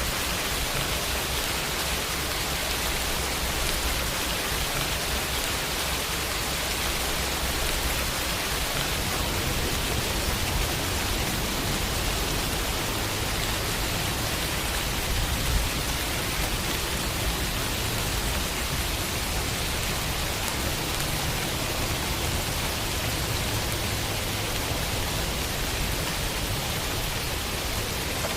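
Steady rain falling on a window, an even hiss of rainfall with no let-up.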